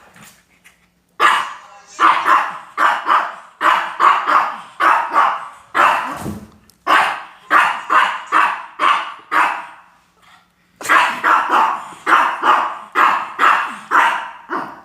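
A dog barking repeatedly at a visitor, in quick volleys of about two barks a second, with a short pause about ten seconds in before the barking starts again.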